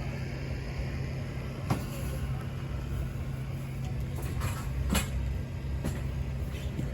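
An engine running steadily with a low hum. There are two sharp clicks, one a little under two seconds in and a louder one about five seconds in.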